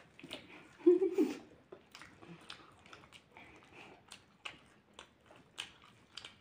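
Close-up chewing and lip-smacking from people eating rice and greens by hand: a run of small wet clicks, with a brief louder sound about a second in.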